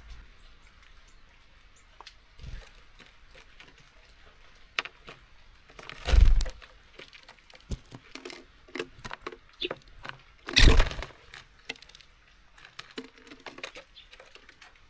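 Small birds at a seed feeder: scattered clicks and taps of beaks and feet on the feeder and seeds, with two louder thumps, about six seconds in and again just after ten seconds.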